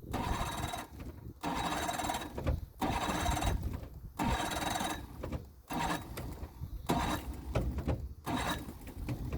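Boat motor being cranked over and over on a cold start: about seven short starting attempts, each lasting about a second with brief pauses between them, none of them catching.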